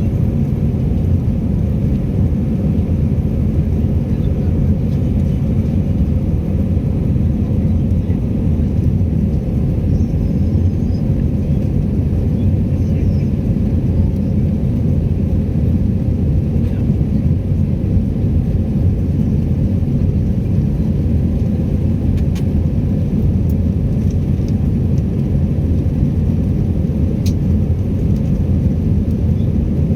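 Airliner cabin noise during take-off: the engines and the rushing air make a steady, loud, low rumble.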